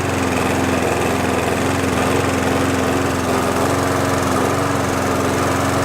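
McCulloch petrol lawn mower's small engine running steadily at an even speed, now repaired.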